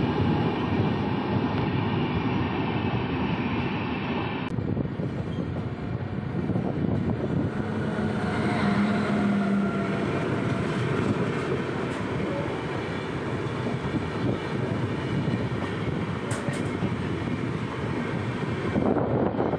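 Steady rumble and rattle of a moving Indian Railways passenger train's wheels on the rails, heard through an open coach window while another express train runs on the next track. The sound changes abruptly about four and a half seconds in.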